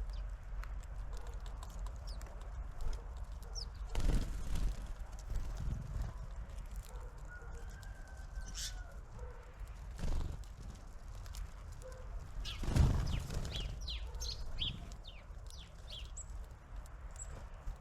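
Small songbirds at a garden feeder: a few sharp knocks and flutters as they land and peck, and a cluster of short high calls about three-quarters of the way through, over a low wind rumble on the microphone.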